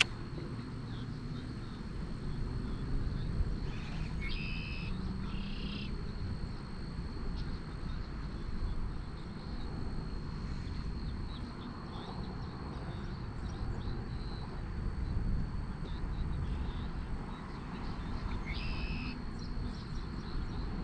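Wind rumbling steadily on the microphone outdoors, with a bird giving short calls a few times: twice about four to six seconds in and once near the end.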